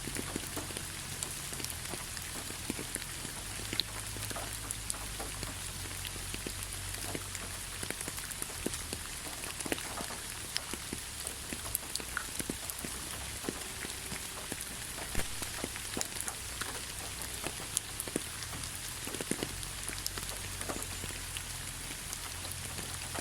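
Rain falling steadily, with many individual drops tapping at irregular moments over a constant hiss.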